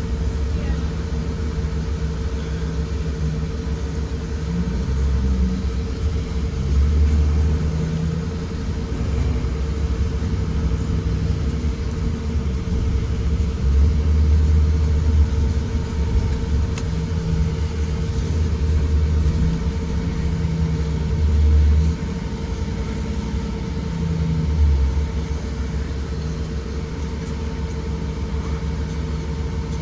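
A Blue Bird Vision school bus heard from inside the cabin while under way: a deep engine and road rumble that swells and eases every few seconds, over a steady hum.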